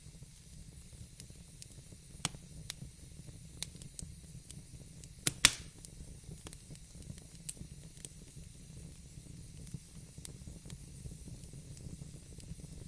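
Wood fire burning in a fireplace: a steady low rumble with scattered sharp crackles, and two louder pops in quick succession about five seconds in.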